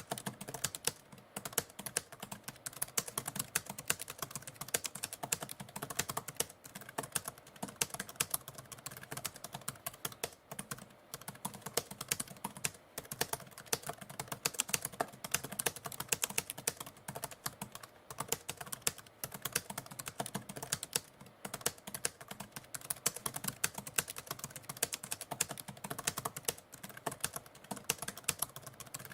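Mechanical typewriter typing: a continuous, irregular run of sharp key strikes with brief pauses between bursts.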